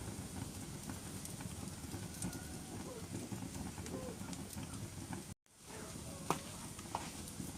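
Wood fire burning in a fireplace, crackling with scattered sharp pops over a low steady rumble of flames. The sound cuts out completely for a moment a little over five seconds in, then the crackling resumes.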